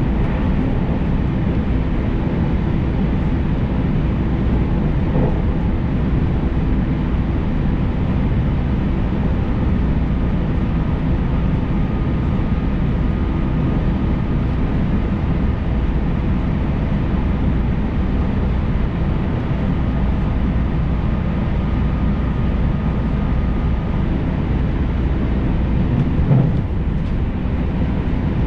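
Steady running noise of a JR Tokaido Main Line electric train, heard inside the passenger car as it travels along the line: an even low rumble. A faint steady whine runs through the middle, and there is a brief knock near the end.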